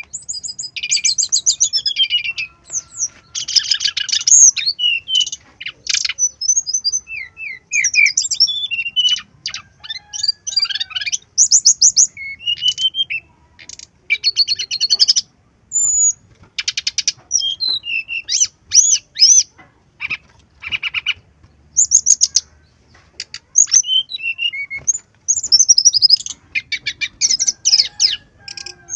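Brown-chested jungle flycatcher singing a varied, high song: quick phrases of rapid trills and short whistled notes with brief pauses between them, a master song full of mixed-in phrases.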